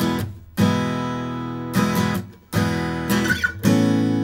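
Acoustic guitar strummed in a steady campfire rhythm, a ringing chord struck about once a second. The strings are briefly cut off twice, in keeping with a pattern that switches between damped and open strokes.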